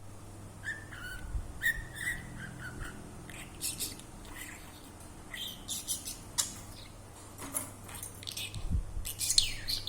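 Pet budgerigar chirping and chattering in short, quick calls, with a louder squawk near the end.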